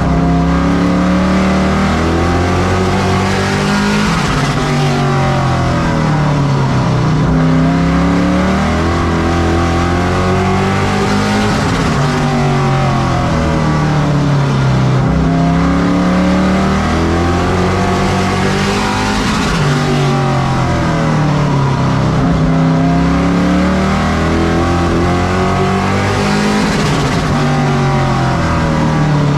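Race truck engines running at racing speed on a short oval, their pitch climbing and falling again and again as they accelerate down the straights and lift for the turns.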